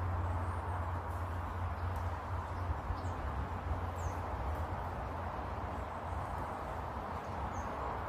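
About four short, high bird chirps, each falling in pitch, scattered over a steady hiss and low rumble of garden ambience.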